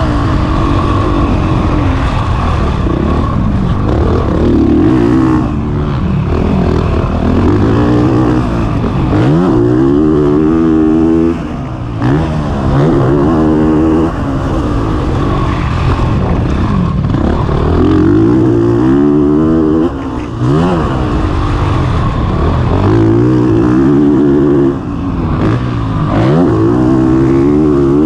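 Honda CRF450RX's single-cylinder four-stroke engine revving up and down hard as the dirt bike is ridden round a motocross track, with a few short throttle cuts.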